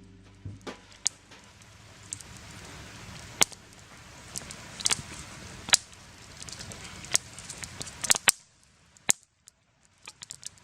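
Campfire of wet wood crackling, with sharp pops scattered irregularly over a light hiss. About eight seconds in, it drops almost to nothing for a second and a half before the pops resume.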